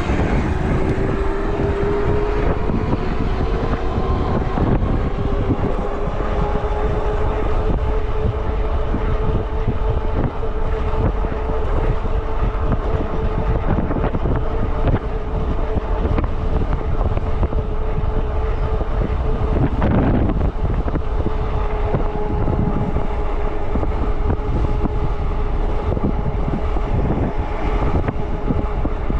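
E-bike riding along a road: a steady whine that rises a little at first and then holds, over wind buffeting the microphone.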